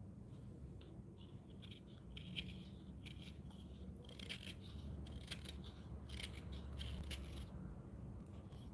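A carving blade taking a series of short, irregular scraping cuts in wood, busiest in the second half. A low steady hum runs underneath.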